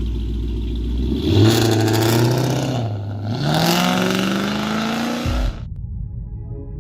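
Dodge Charger R/T's 5.7-litre Hemi V8 revving as the car accelerates, its pitch climbing twice, then cutting off abruptly about five and a half seconds in.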